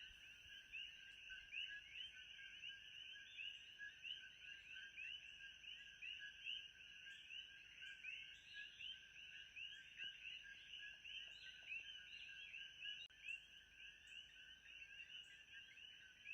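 Faint nature ambience: a dense, continuous chorus of many short overlapping chirps, with a steady high-pitched whine and light regular ticks above it.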